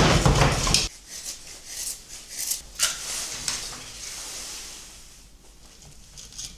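Rustling and rubbing of camp gear or food packaging being handled, with short crinkly scrapes, after a loud rushing noise that cuts off sharply about a second in.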